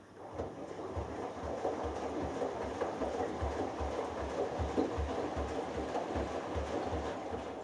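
Hoover Dynamic Next washing machine drum turning through one wash tumble of about seven seconds on the delicates cycle, with wash water and laundry sloshing and regular low thumps about three times a second. The tumble starts and stops abruptly.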